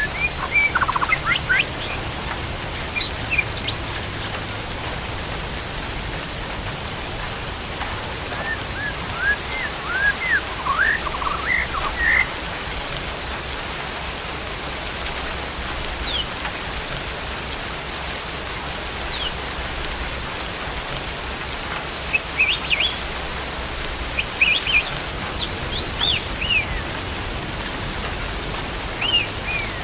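Songbirds giving short chirps and quick whistled notes in scattered bouts over a steady hiss.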